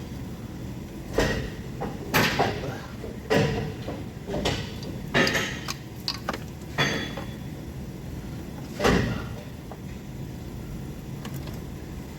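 Irregular knocks and clanks from hands-on work in a car's engine bay, about seven distinct hits, some ringing briefly, over a steady low hum.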